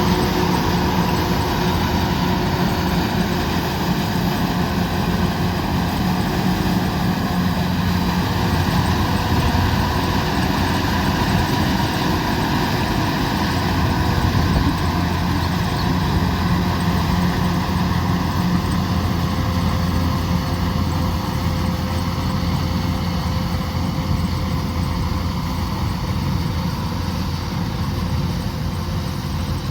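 Kubota combine harvester running steadily at working speed, a continuous heavy diesel engine drone with the whir of the threshing and cutting machinery.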